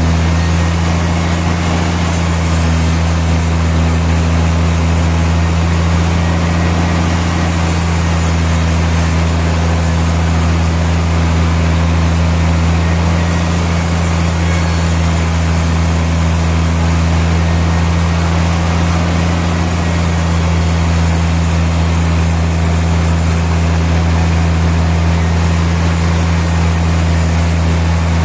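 Sawmill machinery running steadily: a loud, low, even drone with no rise or fall in pitch and no change in load.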